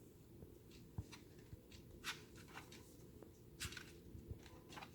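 Near silence, broken by faint scattered clicks and soft rustles of a paper book's pages being handled. The clearest rustles come about two seconds in and again about a second and a half later.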